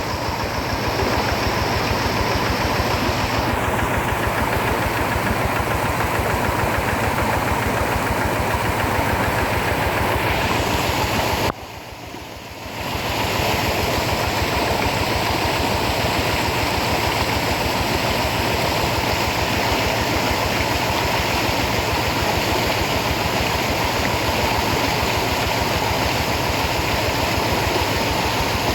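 Rice-field tractor engine running steadily, with a rapid, even firing pulse under a broad noisy wash. The sound drops away briefly about twelve seconds in, then comes back as before.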